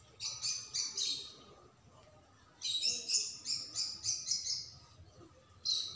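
Small bird chirping in quick runs of high, repeated notes: a short run near the start, a longer run from about two and a half seconds in, and another beginning near the end.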